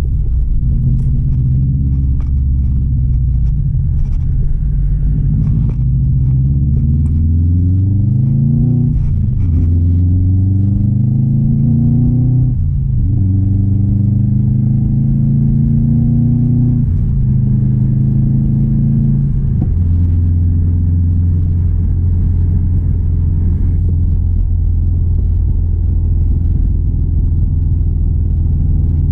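2016 Subaru WRX STI's turbocharged 2.5-litre flat-four, a built engine, pulling up through the gears. Its pitch climbs and drops sharply at three gear changes, then holds steady at a cruise.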